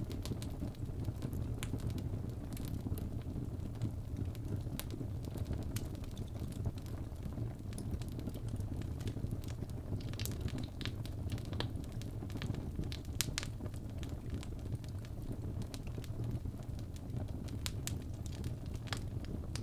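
Fireplace burning: a steady low rumble of the fire with scattered sharp crackles and pops, which come thicker in the middle and near the end.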